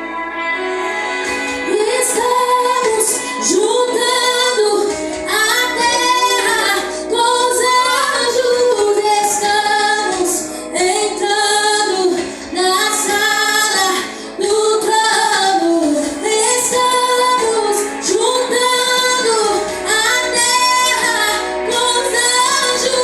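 A woman singing a worship song over sustained instrumental accompaniment, her voice coming in about a second in with long held, wavering notes.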